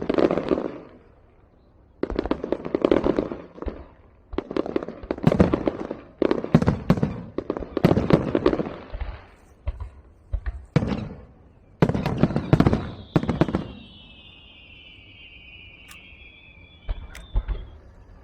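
Fireworks and firecrackers going off in repeated bursts of rapid crackling bangs. Partway through, a whistle falls slowly in pitch for about three seconds.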